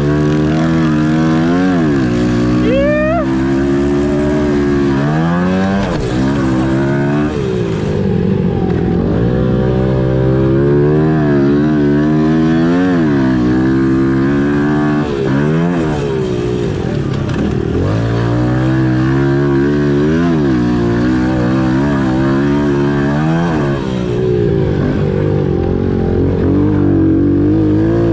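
Pit bike engines revving hard and falling off over and over, several bikes overlapping as they race around a dirt track.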